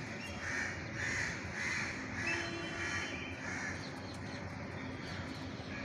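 Crow cawing: a run of about six caws, roughly one every half second, stopping a little past halfway.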